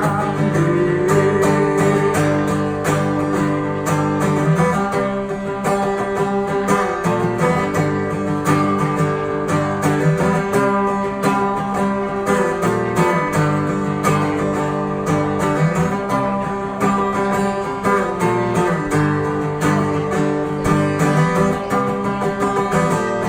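Acoustic guitar strummed in a steady rhythm of chords, an instrumental break with no singing.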